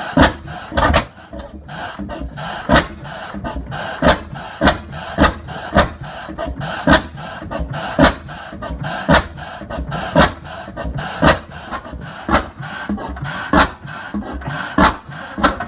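Reid 25 hp two-stroke stationary gas engine running slowly on propane, giving sharp firing beats about twice a second. Now and then a beat is skipped.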